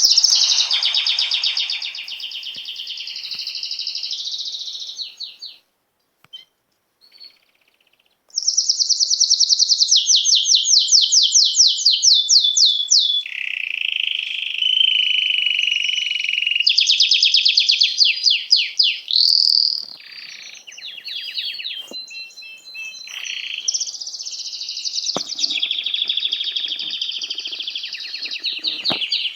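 Small songbirds chirping and trilling in fast, high-pitched runs of repeated notes, several overlapping. The calls break off for about three seconds around six seconds in, then start again.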